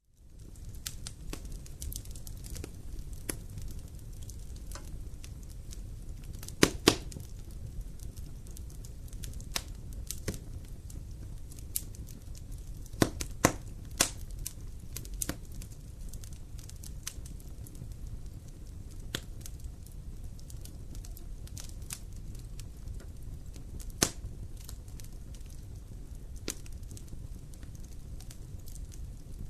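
Wood campfire crackling: irregular sharp pops and snaps over a steady low rumble of the burning fire, with the loudest pops as a pair about seven seconds in, a cluster around thirteen to fourteen seconds, and a single one near twenty-four seconds. The sound fades in from silence at the start.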